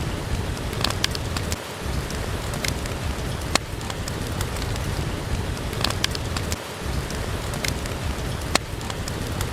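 Steady rain falling, mixed with a crackling wood fire that gives a sharp pop every second or two.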